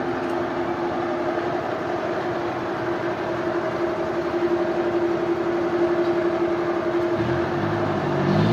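Sawmill machinery running steadily, a constant hum with a noisy rush underneath. About seven seconds in, a lower engine-like drone joins and rises slightly in pitch.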